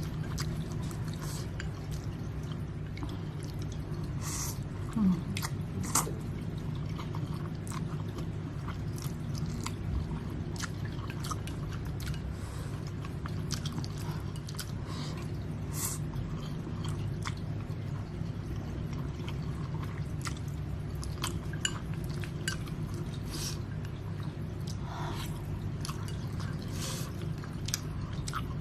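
Close-miked eating of spicy instant noodles: chewing and short wet mouth clicks, scattered and irregular throughout, with a sharper noise about five and six seconds in. A steady low hum sits underneath.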